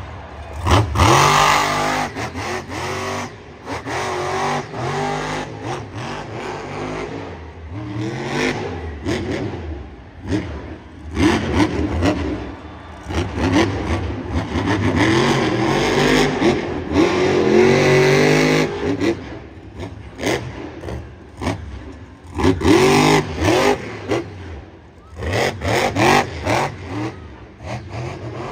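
Monster truck engine revving hard over and over, its pitch climbing and falling away several times as the throttle is opened and closed.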